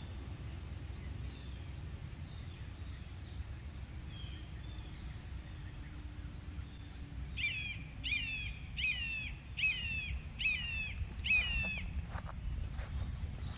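A songbird sings the same short phrase six times in a row, about one every three-quarters of a second, after fainter chirps, over a steady low background rumble.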